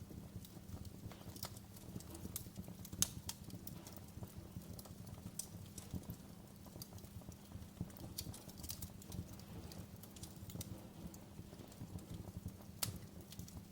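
Wood fire crackling in a fireplace: irregular pops and snaps over a low, steady rumble, the sharpest pop about three seconds in and another near the end.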